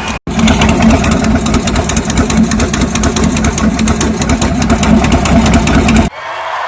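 Car engine running loudly with a rapid pulsing rumble. It starts right after a brief dropout and cuts off suddenly near the end.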